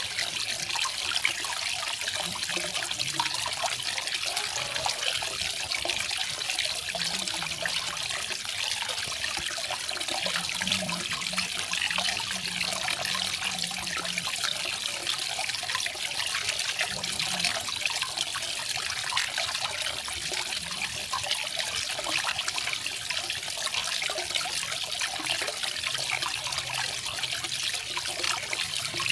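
Garden waterfall: water falling and splashing in a steady, even rush.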